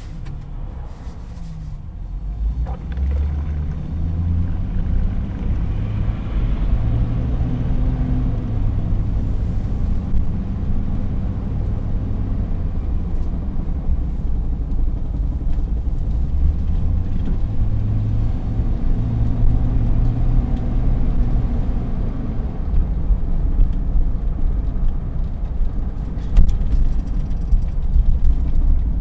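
Chevrolet Silverado 1500 4x4 pickup driving, the engine note rising in the first few seconds and then running steadily over road rumble. A few sharper knocks come near the end: the clunking that the owner suspects is a worn CV joint, with a wheel bearing or the differential as other suspects.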